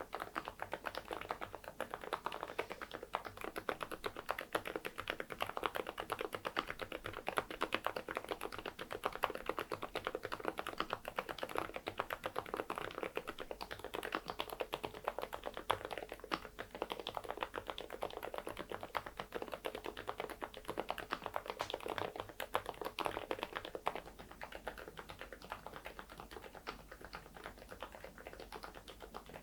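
Continuous typing on an AULA F99MAX mechanical keyboard fitted with Saebyeok silent linear switches and Odokey baseball keycaps: a steady stream of rapid keystrokes.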